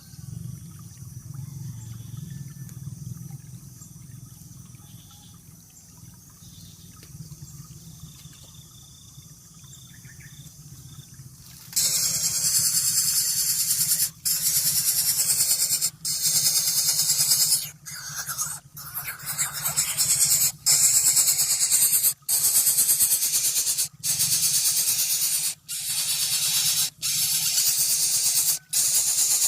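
A faint low hum, then about twelve seconds in a loud hissing noise starts abruptly, running in long stretches broken by short gaps every second or two.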